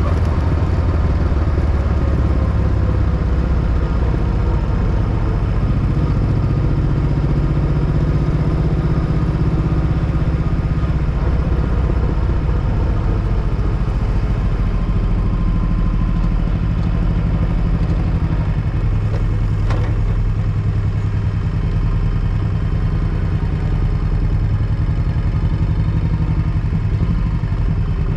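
Motorcycle engine running steadily, its note stepping up in pitch about six seconds in.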